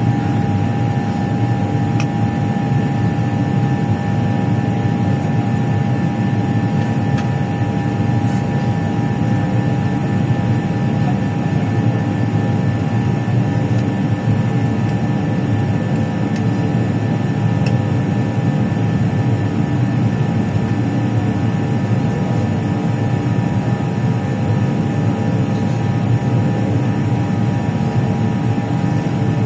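Aircraft engines running in flight: a steady drone with a constant whine over a low rumble, unchanging throughout.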